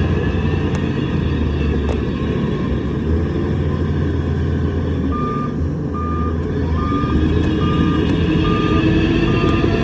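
Heavy diesel machinery engine running steadily. About halfway through, a reversing alarm starts, sounding one short high beep roughly every two-thirds of a second, and the engine pitch rises toward the end.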